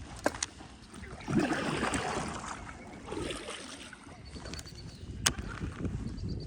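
Water sloshing against a kayak's hull in surges, with a few sharp clicks.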